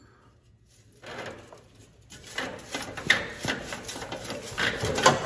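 Irregular clatter and scraping of tools and metal parts being handled, with a few sharp knocks, starting about a second in.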